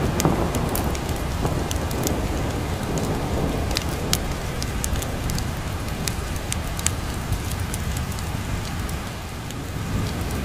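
Rain falling steadily with the sharp crackles and pops of a wood fire over it. A low thunder rumble dies away over the first few seconds and begins to build again at the very end.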